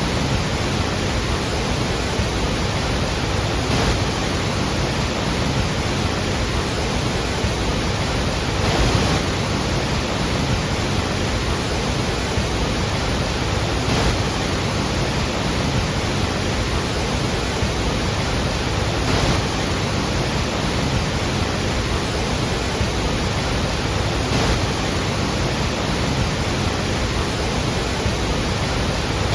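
Steady, loud rush of the Iguazú waterfalls, water thundering down in an even roar of noise with slight swells.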